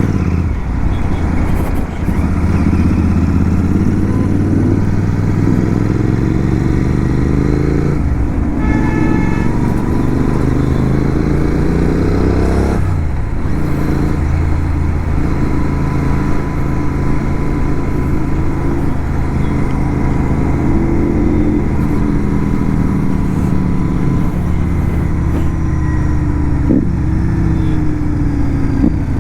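Motorcycle engine pulling hard while riding, its pitch rising through the gears in long runs with breaks at the shifts about eight and thirteen seconds in. A brief horn-like beep sounds about nine seconds in.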